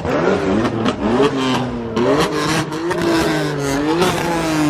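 Several car engines revving, their pitch rising and falling again and again over a steady engine drone, with sharp pops and crackles mixed in.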